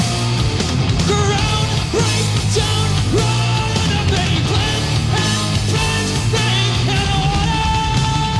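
Live heavy rock band playing loudly, with a thick distorted low end of guitar and bass under bending lead lines. Near the end a single high note is held steady.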